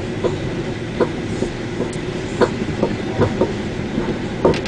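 Train wheels running on the rails, heard from on board a moving train: a steady rumble with irregular sharp clicks as the wheels cross rail joints.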